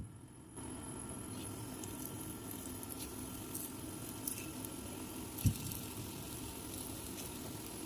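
Maida-dusted boneless chicken breast pieces going into shallow oil in a pan, the oil sizzling steadily with scattered crackles. A single soft thump about five and a half seconds in as another piece is set down.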